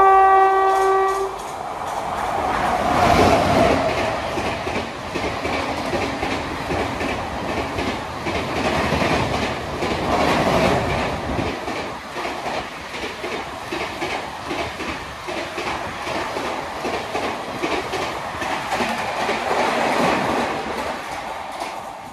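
Indian Railways express train running through a station at high speed. The locomotive's horn sounds briefly at the start. Then comes a loud rumble as the engine passes, followed by a long run of coaches rushing past with a steady clickety-clack of wheels over rail joints, fading as the train recedes near the end.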